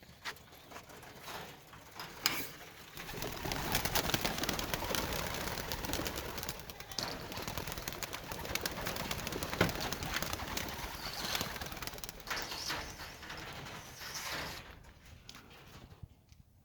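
A loft full of racing pigeons cooing, with a dense, busy clatter of wings and feet that swells about three seconds in and dies away near the end, and a couple of sharp knocks.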